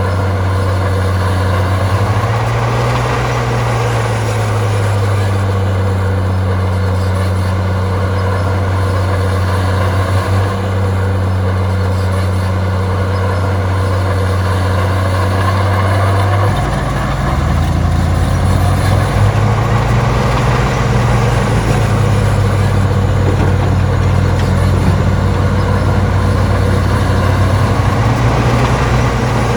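Heavy diesel engine of earthmoving machinery running steadily, its pitch rising and falling briefly a few seconds in. About halfway through the sound turns deeper and louder and stays that way.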